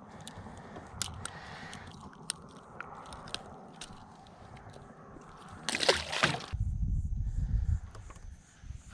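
Water sloshing against a small skiff, with scattered light clicks and knocks, then a louder splash about six seconds in, followed by a low rumble.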